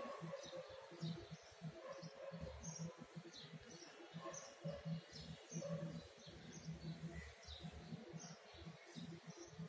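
Faint outdoor ambience with birds chirping: many short, high chirps repeating every second or so over a low, uneven rumble.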